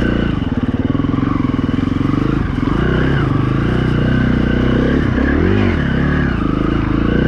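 A KTM 350 EXC-F dirt bike's single-cylinder four-stroke engine running at low revs, with a short throttle blip about three seconds in and a bigger rise and fall in revs about five and a half seconds in.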